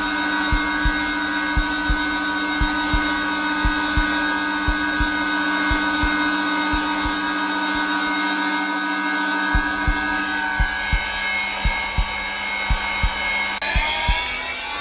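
Zelmer vacuum cleaner motor running steadily on its lowest setting, a whine of several fixed tones, mixed with a heartbeat's regular low thumps. Near the end the motor's whine rises in pitch.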